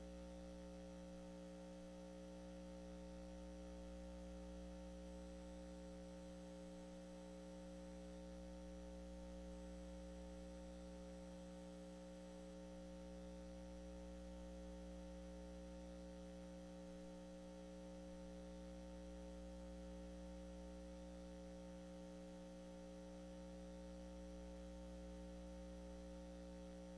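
Near silence with a steady electrical mains hum, a constant buzz of several held tones that stays unchanged throughout.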